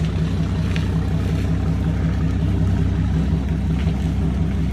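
An engine running at a steady idle, a continuous low hum with no change in speed.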